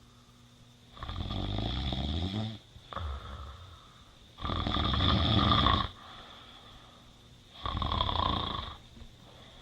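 A person snoring: three long snores about three seconds apart, with a shorter breath between the first two.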